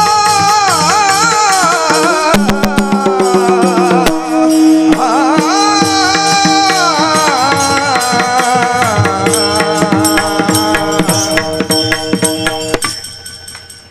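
Devotional kirtan music. A melodic line bends and wavers over steady held tones, with hand drum and rattling percussion keeping a fast rhythm. It stops a little before the end.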